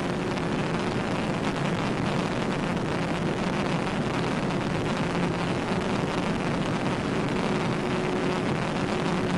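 Steady road and wind noise with a low engine drone inside a police cruiser at high speed during a pursuit.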